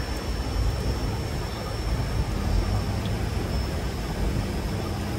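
Steady rumbling ride noise of a moving passenger train, heard from an open car platform, with wind buffeting the microphone.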